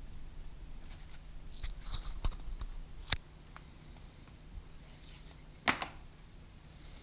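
A few sharp clicks and knocks, as of tools or parts being handled, over a faint low hum; the loudest come about three and about six seconds in.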